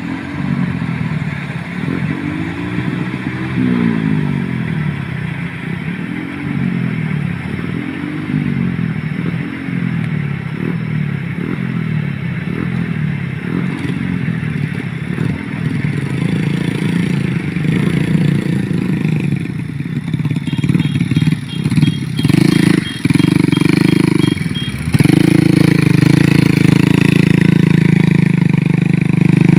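Motorcycle engine under load, hauling grain sacks: the revs rise and fall again and again as the throttle is worked. Near the end it settles into a louder, steadier run at higher revs.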